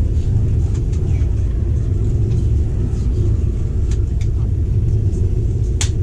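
Steady low rumble of a passenger train running, heard inside the carriage, with one sharp click near the end.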